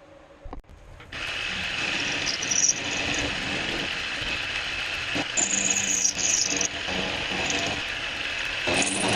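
Milwaukee deep cut portable band saw starting about a second in and running steadily, with a high squeal coming and going on top.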